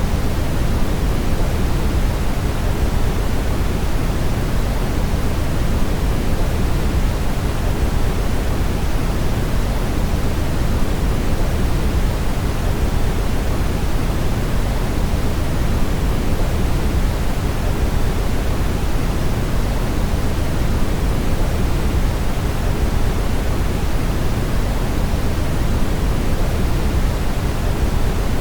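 Brown noise: a steady, even rushing hiss, heaviest in the low end and thinning toward the highs, with no change throughout.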